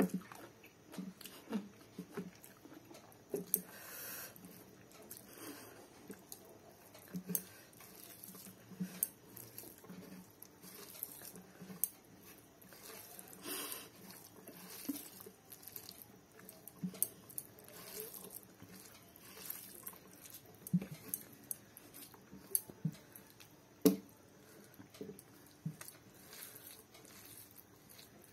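Close-up eating sounds: a person chewing big mouthfuls of rice and chicken curry, with irregular wet mouth clicks and smacks, and the soft squish of fingers working rice on the plate. A few sharper clicks stand out, the loudest a little before the end.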